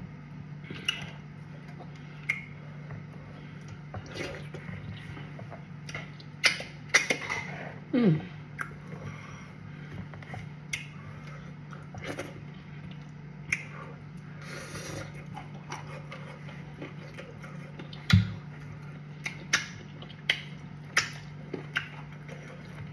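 A person eating cassava fufu and soup: mouth and chewing sounds with scattered light clicks and knocks of dishes, over a steady low hum.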